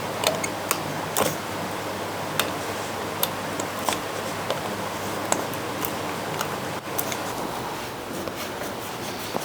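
A hand paint scraper working flaky old antifoul and red lead paint off a wooden boat hull: irregular sharp scrapes and clicks, one every half second or so, over a steady hiss.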